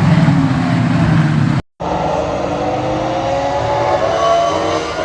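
Ferrari racing car engines running at a low, steady note. After a brief cut, several engines hold higher notes that slowly rise in pitch as the cars accelerate past.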